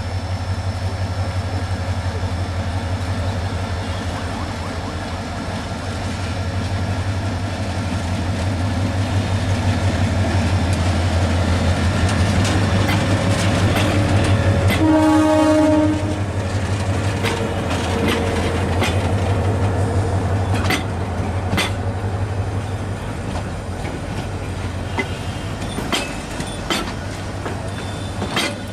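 A departing passenger train's diesel locomotive running with a steady low drone. Its horn sounds one blast of about a second about halfway through, and in the second half the wheels click more and more often over the rail joints.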